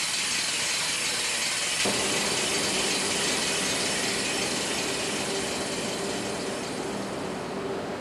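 Mechanical device that raises and lowers a suspended sculpture, running steadily with a dense ratcheting, gear-driven clatter; a steady low hum joins about two seconds in.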